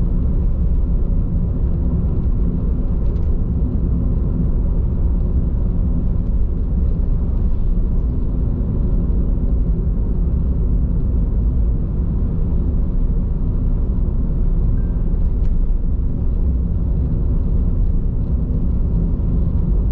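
Steady low rumble of road and tyre noise inside a moving car's cabin, on Bridgestone Regno tyres.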